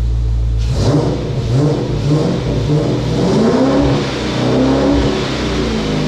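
Dodge Magnum's 5.7 Hemi V8 idling, then revved in several rises and falls starting about a second in before settling back toward idle near the end. It is running on freshly changed oil and sounds healthy.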